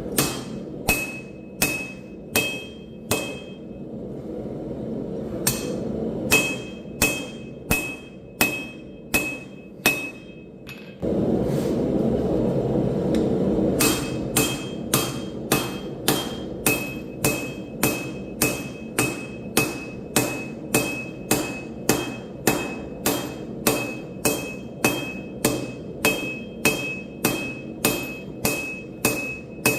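Hand hammer striking hot steel on an anvil in forging, each blow ringing with a clear metallic tone. The blows come in runs of about two a second, with a short pause early on, over a steady rushing noise that gets louder about a third of the way in.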